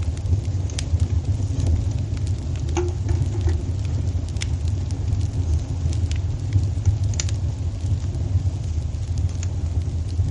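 Crackling wood fire in a fireplace: a steady low rumble with irregular sharp crackles and pops scattered through it.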